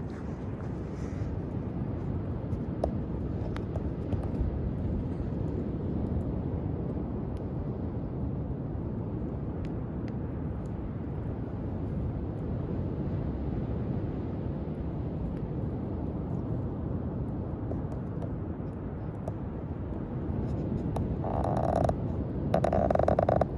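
Driftwood campfire burning, with scattered faint crackles over a steady low rushing noise. Near the end, two louder rushes of a second or so each.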